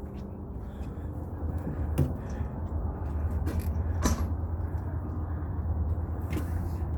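Steady low drone of the tugboat's running machinery carried through the hull, with a couple of light knocks.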